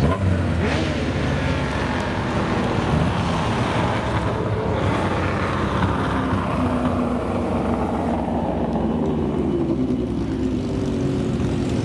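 Vintage racing car engine running hard, loud and steady, its higher notes dulling over the second half.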